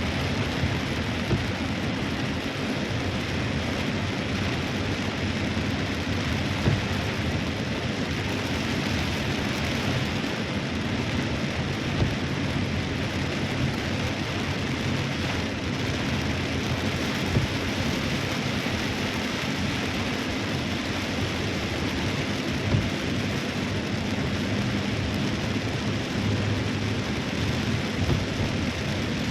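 Heavy rain pouring steadily, with now and then a sharper, louder tap of a drop striking a nearby surface.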